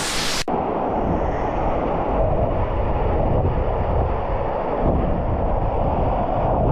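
Waterfall's rushing water heard close up as a steady, loud roar with a heavy low rumble, likely with spray and wind buffeting the microphone. It cuts in abruptly about half a second in.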